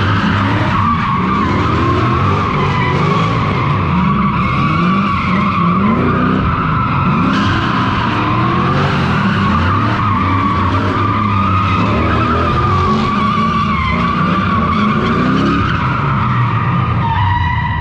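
Straight-piped Toyota 3UZ V8 revving up and down repeatedly as the car drifts, over a continuous tyre squeal from the tyres sliding sideways.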